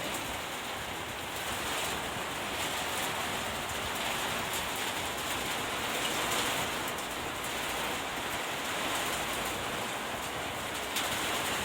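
Steady rain falling in a thunderstorm: an even hiss with faint patter of drops.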